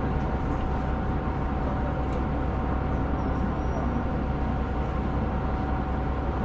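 Steady engine and running noise heard inside the cabin of a KiHa 125 diesel railcar: an even low rumble with a faint steady hum above it.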